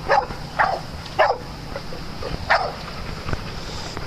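A dog barking: three short barks within the first second and a half, then one more about two and a half seconds in.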